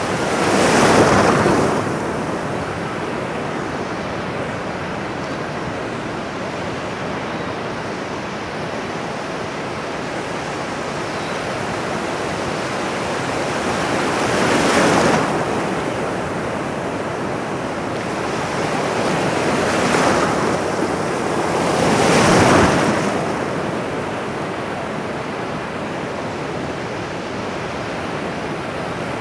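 Ocean surf: a steady wash of water noise with waves swelling and breaking four times, near the start, about halfway, and twice close together later on.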